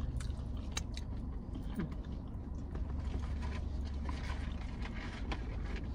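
Close-up biting and chewing of a chicken sandwich with lettuce, with scattered small wet mouth clicks, over a steady low hum inside a car.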